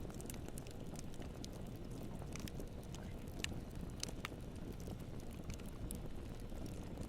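Wood campfire burning: irregular sharp crackles and pops over a steady low rumble, with a couple of louder snaps about three and a half and four seconds in.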